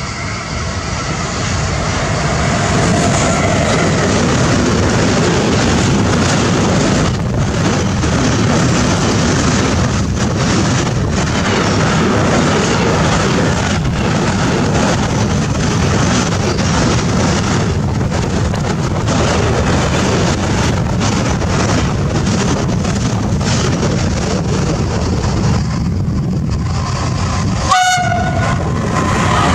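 Freight train passing through a station at speed: a loud, steady rumble of wheels on rail with repeated clicks as the wagons roll by. Near the end the sound breaks off sharply.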